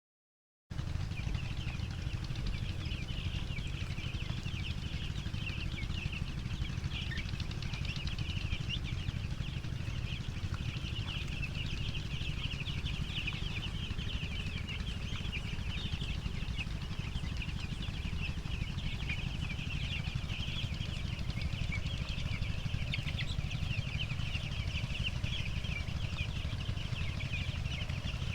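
A shed full of seven-day-old broiler chicks cheeping constantly, many high peeps overlapping, over a steady low rumble. It starts abruptly a moment in.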